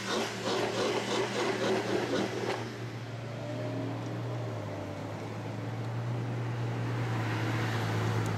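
Ferrari FF's V12 engine droning steadily at cruise, heard from inside the car, with more road noise over the first two and a half seconds that then eases off.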